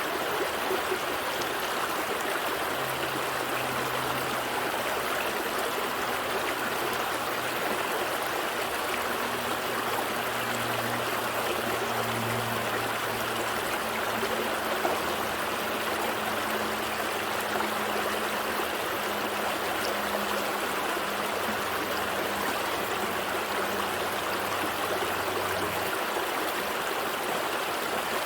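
Gentle stream flowing steadily, with a constant rush and trickle of water. A faint low hum sits underneath from about three seconds in until near the end.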